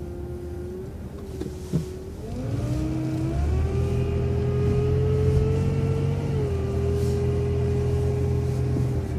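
Transit bus heard from on board, running quietly before pulling away about two seconds in: the engine note and a drivetrain whine climb in pitch, hold steady, then ease back near the end. A single short knock comes just before it moves off.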